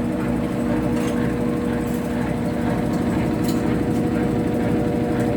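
Consul Facilite washing machine running, its motor giving a loud, steady hum, with a few faint clicks.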